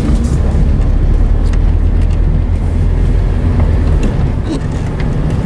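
Car engine and exhaust running at low speed, heard from inside the cabin as a steady low rumble.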